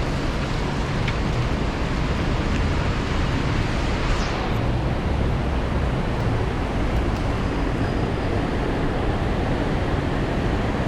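Heavy rain pouring down in a city street, a steady even hiss with a low rumble underneath.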